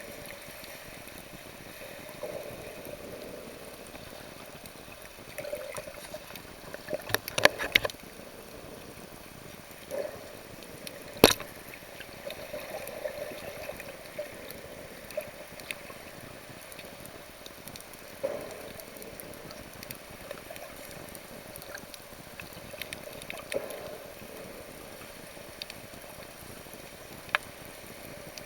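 Sea water sloshing and gurgling around the microphone while snorkeling. A cluster of sharp knocks comes about seven seconds in, and a single louder knock about eleven seconds in.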